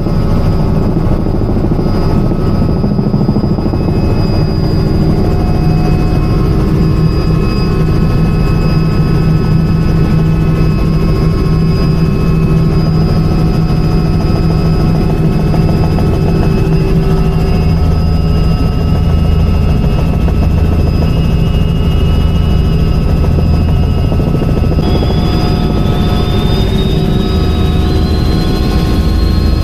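Helicopter in flight, its rotor and turbine engine running steadily: a dense low throb with a thin high whine over it. The whine climbs in pitch in two steps near the end.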